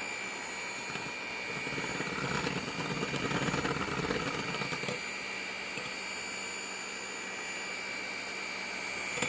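Electric beater running steadily with a constant high whine while whipping cream in a bowl, getting a little louder and fuller for a few seconds in the middle.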